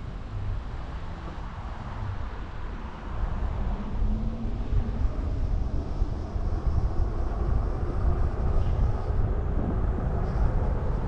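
Super73 electric bike on the move: steady low rumble of wind and road noise, rising and falling in loudness, with a faint tone briefly near the middle.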